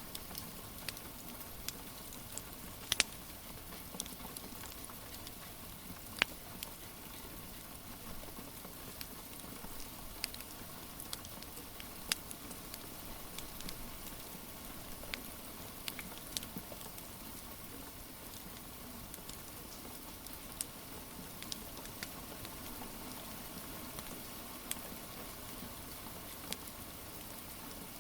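Steady hiss of gentle rain, with irregular sharp pops and crackles from a wood fire burning in a fireplace.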